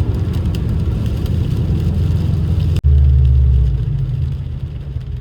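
Subaru WRX's turbocharged flat-four running on the road, with engine and road noise heard from inside the car. The sound cuts out for an instant a little under three seconds in, then the engine comes back louder and lower for about a second before easing off.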